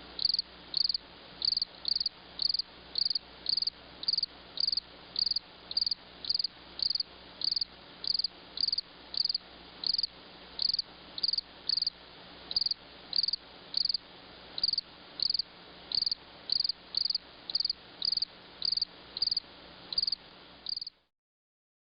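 Cricket chirping in a steady, even rhythm of short high-pitched chirps, about one and a half to two a second, over a faint steady background hum; it cuts off suddenly near the end.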